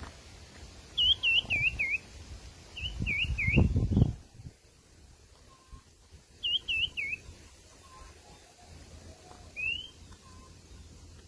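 Sirtu (black-tailed iora) calling: short runs of three or four hooked whistled notes, repeated several times, then a single rising note near the end. A low rumbling noise sounds around three to four seconds in.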